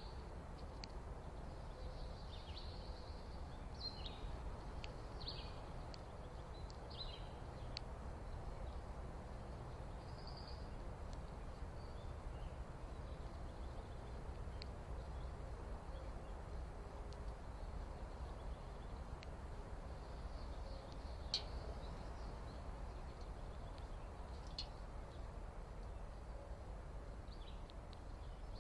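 Birds giving short, high chirps, scattered irregularly over a steady low background rumble, with one sharp click a little past two-thirds of the way through.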